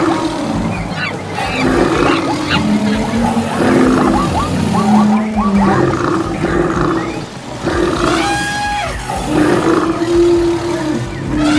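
Animal stampede sound effect: a dense, continuous mix of animal calls and cries, with roars and quick chirp-like calls in the first few seconds, and a long falling call about eight seconds in.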